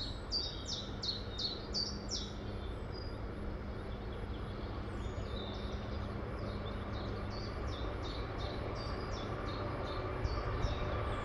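A songbird repeating short, quick falling whistles in two runs, one at the start and one from about five seconds in, over a low rumble that grows slowly louder as a distant freight train hauled by a DB class 152 electric locomotive approaches.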